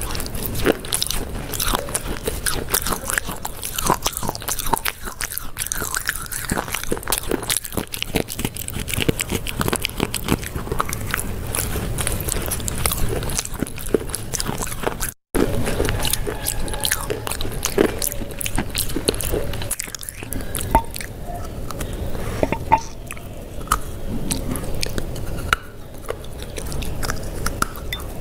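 Close-miked biting and chewing of crunchy food, with dense crisp crunching clicks. The sound drops out completely for a split second about halfway through.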